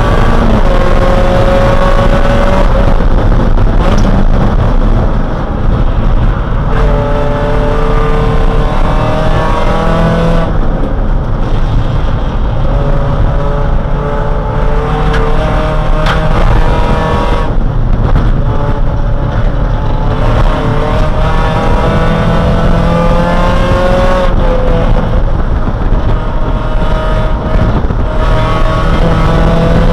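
Race car engine heard from inside the cabin, running hard at high revs. Its pitch climbs steadily and drops back several times as the car accelerates, shifts and slows for corners.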